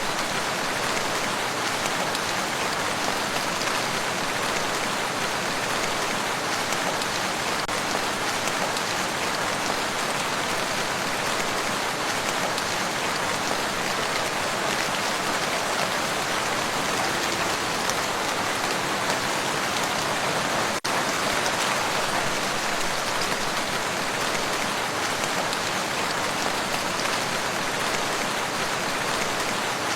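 Steady rain falling on a lake, a dense even hiss of drops on the water with no let-up. There is a split-second dropout about two-thirds of the way through.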